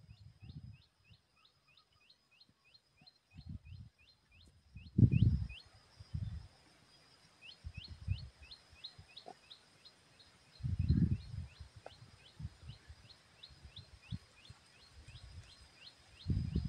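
A bird calling a fast, even run of short notes that drop in pitch, about three a second, breaking off for a couple of seconds midway. Under it is a faint steady high tone, and a few low bumps hit the microphone.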